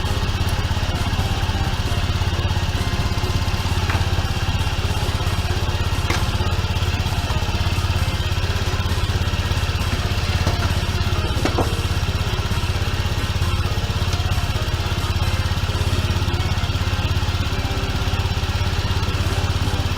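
An engine idling steadily, with a few faint ticks over the top.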